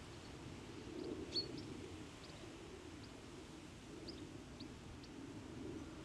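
Short, high bird chirps every second or so, the sharpest about a second and a half in, over a steady low background rumble of outdoor noise.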